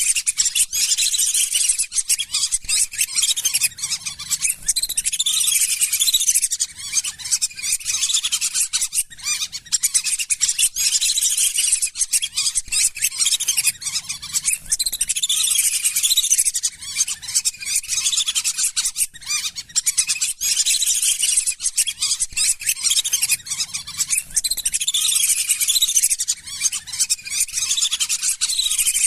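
Lesser whistling ducks calling: a flock's dense, high-pitched whistling chatter that goes on without a break, used as a lure call to draw in wild whistling ducks. The same stretch of calling comes round again about every ten seconds.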